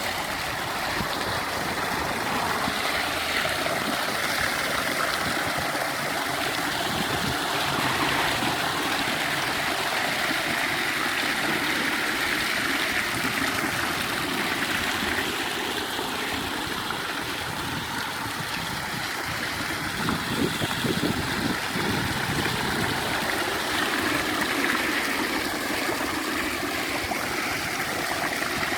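Water running steadily over a built decorative waterfall, splashing and trickling.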